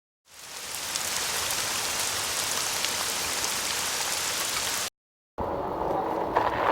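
Steady rain hiss with faint scattered drop ticks, fading in at the start and cutting off abruptly about five seconds in. After a brief silence, a lower steady rushing noise takes over.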